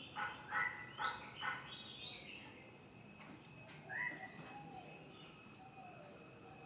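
Wild bird calls: four short calls in quick succession, then a few higher notes, and one more call about four seconds in, over a faint steady high whine.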